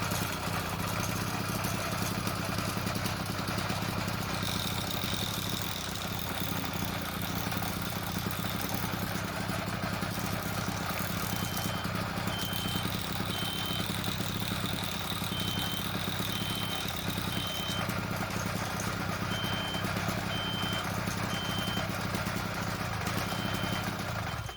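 Motorized bicycle engine running steadily with its drive chain turning, a chain the owner says is noisy from several bad links rubbing the pinion gear. The engine cuts off suddenly at the very end. Through the second half a faint, short high beep repeats about once a second.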